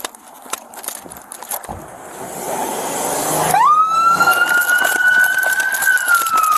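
Police car siren coming on about halfway in: a wail that shoots up in pitch, climbs slowly, and begins to fall near the end, after a rising rush of noise.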